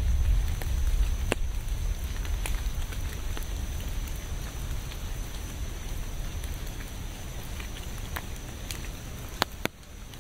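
Rain falling steadily, with scattered sharp drips ticking close by over a low rumble that eases after the first couple of seconds. The sound briefly drops away just before the end.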